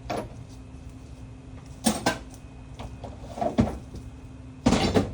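A few separate knocks and clunks of hand work on a car, with a louder clattering knock near the end, over a steady low hum.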